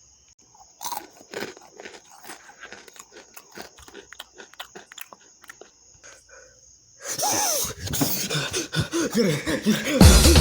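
Knock-off Flamin' Hot Cheetos crunching as they are bitten and chewed, in a run of short crisp crunches. About seven seconds in comes a loud, rough outburst of wheezing and coughing, a reaction to the chips' heat.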